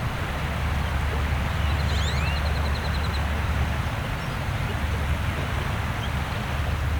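Steady wash of gentle waves with a constant low rumble. About two seconds in, a bird gives a quick run of about ten high, evenly spaced notes together with a few short rising chirps.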